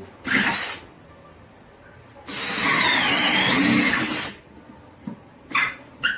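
DeWalt DCD805 cordless brushless drill boring through wood with a 1-inch Irwin Speedbor self-feeding bit. A short burst comes just after the start. About two seconds in, it runs for about two seconds of steady drilling, its whine dipping in pitch and rising again as the bit bites. Two brief blips follow near the end.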